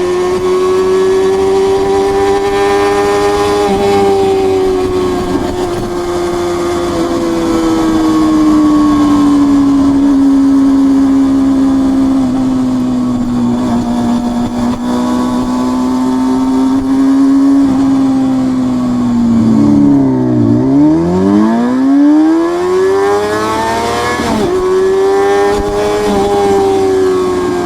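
Honda CBR250RR MC22's 249 cc inline-four engine running at high revs under way, its high-pitched exhaust note held and wavering for most of the time. About twenty seconds in the revs drop sharply, then climb again, with a quick break in pitch that sounds like a gear change.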